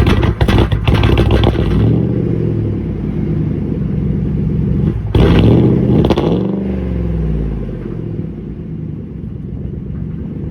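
A pickup's 4.6-litre V8 running rough, which the owner says is running really bad. It is choppy for the first couple of seconds, then steadier, revving up about five seconds in and dropping back to a lower, quieter run.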